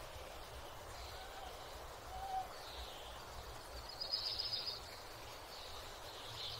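Morning birdsong ambience: scattered high bird calls, the clearest about four seconds in, with a brief lower note a little past two seconds, over a steady low outdoor rumble.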